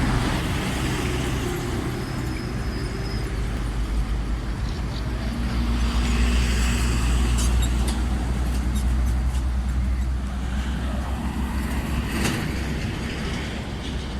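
A heavy motor vehicle's engine running with a steady low rumble, with a few sharp clicks over it.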